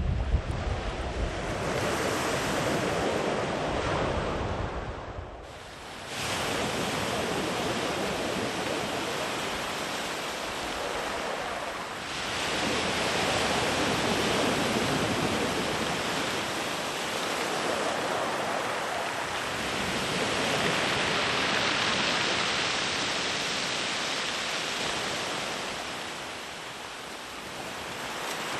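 Sea waves breaking and washing far up a beach, the surf swelling and easing with a fresh wave surging in every six to eight seconds. Wind rumbles on the microphone in the first couple of seconds.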